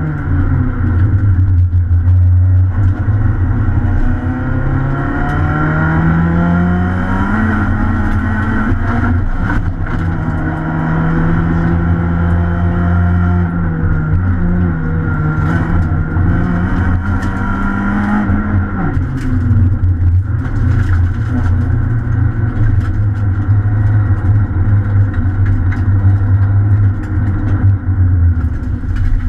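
Citroën C2 R2 rally car's four-cylinder engine, heard from inside the cabin, revving hard and rising and falling in pitch over and over as the car is driven flat out through gear changes, steadier in the last third. Occasional sharp clicks and knocks sound over the engine.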